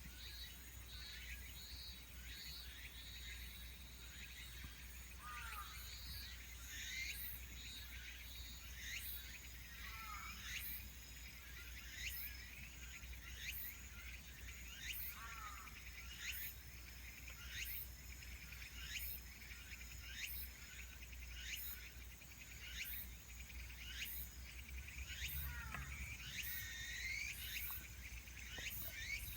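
Faint outdoor ambience: insects trilling steadily with a regular high ticking, while a bird gives a short falling chirp about every five seconds over a low steady hum.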